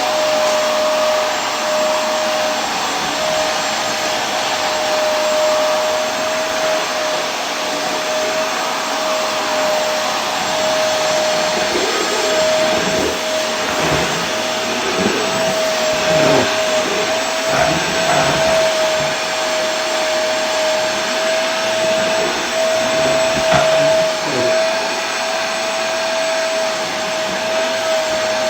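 Vacuum cleaner running steadily: a loud, even rush of air with a constant motor whine. Partway through, the low end flutters unevenly for a while.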